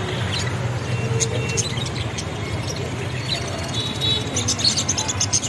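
Small caged birds chirping and twittering in quick short calls, thickest near the end, over a steady low hum.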